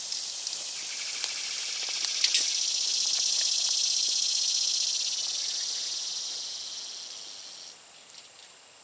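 Insects buzzing in a steady high-pitched chorus that swells a few seconds in and fades out near the end, with a few light clicks in the first few seconds.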